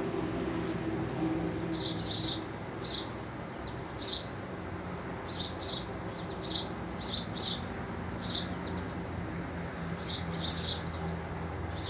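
Small birds chirping: short, high chirps come singly and in quick clusters every second or so, over a low steady hum.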